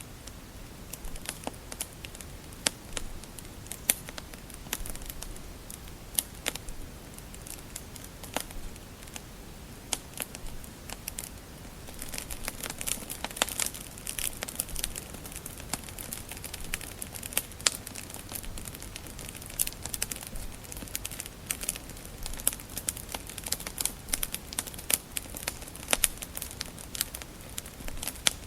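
Wood fire crackling in a fireplace: irregular sharp pops and snaps over a faint steady hiss, growing busier about halfway through.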